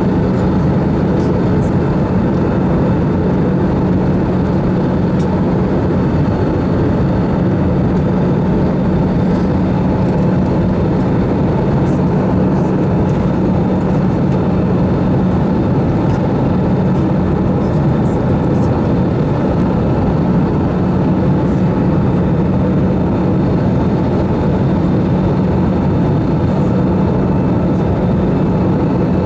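Steady in-flight cabin noise of an Airbus A320-214 with CFM56 engines on approach: an even rush of air with a constant low engine drone.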